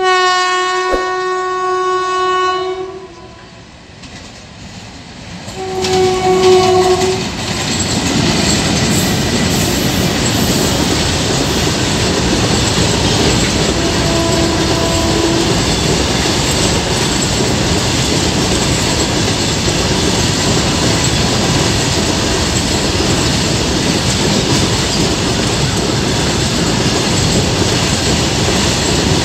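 An electric freight locomotive's horn sounds a long blast, then a short second blast about six seconds in. The long freight train's wagons then roll past steadily, their wheels running over the rails, with a fainter horn note partway through.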